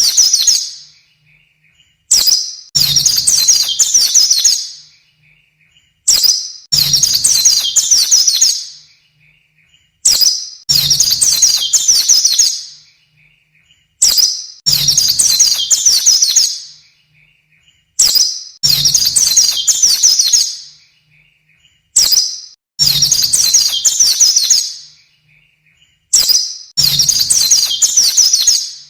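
White-eye (pleci) song: a short high chirp, then a rapid, high twittering phrase of about two seconds, repeated identically every four seconds, seven times, as in a looped masteran tutor recording for training caged songbirds.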